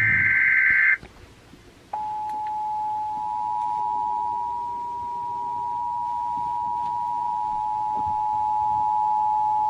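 Emergency Alert System broadcast: the last second of a screeching SAME digital header burst, a short pause, then the two-tone attention signal (853 and 960 Hz together). The attention signal is held steady for about eight seconds, announcing a National Weather Service tornado warning.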